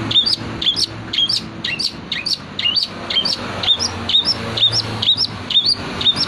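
Long-tailed shrike (cendet) singing a loud series of sharp repeated chirps, about two a second, each note a quick upward-hooked whistle.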